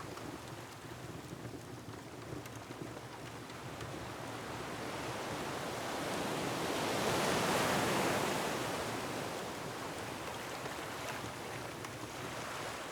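Ocean surf: a rush of breaking waves that swells to its loudest about halfway through and then eases off, with a few faint crackles from a wood fire.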